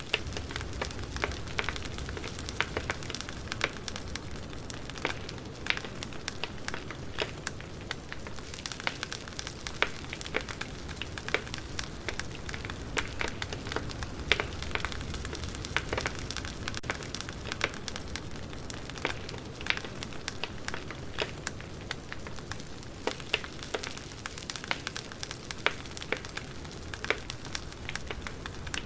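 Campfire crackling: irregular sharp pops and snaps over a steady low rush of burning flames.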